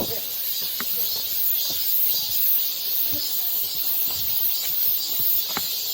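Strong wind on the mountain summit, heard as a steady hiss with scattered faint clicks and taps.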